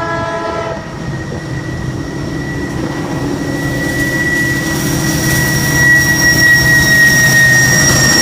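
Diesel freight locomotive horn ending its blast just under a second in, then the locomotives' low rumble growing steadily louder as the train approaches, with a thin, steady high-pitched tone running through it.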